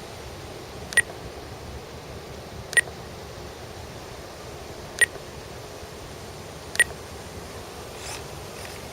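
Four short, high electronic beeps about two seconds apart from a radio-control transmitter, over steady wind noise.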